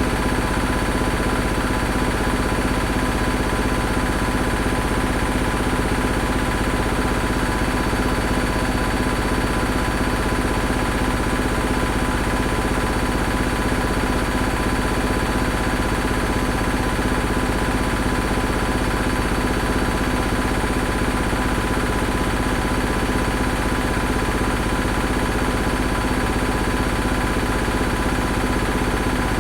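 Washing machine running steadily: a continuous motor hum with a fast, even rattle, unchanging throughout.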